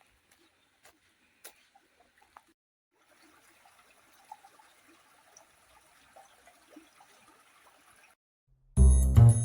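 Faint trickle of a small stream, with a few faint clicks before it, cutting off about eight seconds in. Loud music starts near the end.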